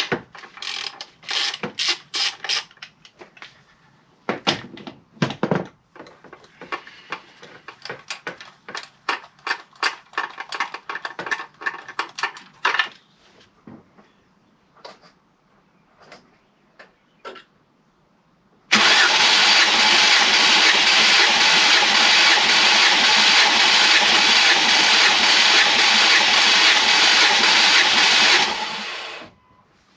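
A run of quick clicks and rattles, then, about two-thirds of the way in, the Mondeo ST220's 3.0 V6 is spun over on its starter motor with the spark plugs out for a compression test. The cranking is loud and steady for about ten seconds and cuts off suddenly near the end.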